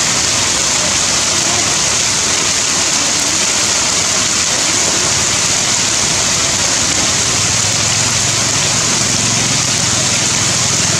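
Heavy rain falling steadily, a loud even hiss. A low steady hum comes in about seven seconds in.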